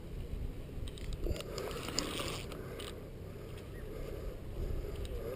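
Fishing reel being cranked during a fight with a hooked catfish, its gears whirring with a ratcheting click and a few sharper clicks.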